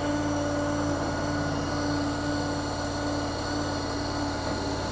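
KYMRON YTL 23 stand-on mini skid steer's engine idling steadily, with a steady low hum and a held mid-pitched tone.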